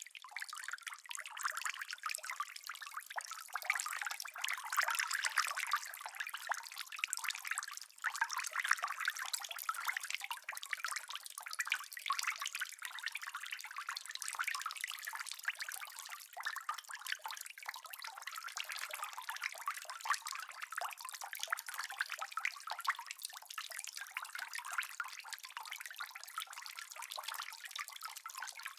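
Steady rain falling, a dense, even patter of many small drops with no thunder.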